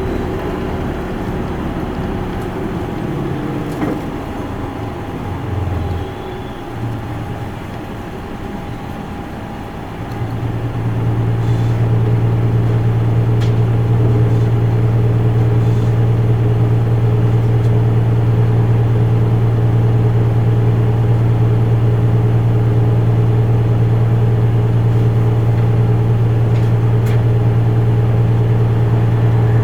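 Isuzu Erga Mio city bus heard from inside the cabin, with its four-cylinder diesel engine running. For about the first ten seconds the engine is quieter and uneven. From about ten seconds in, the engine holds a steady, louder drone under load.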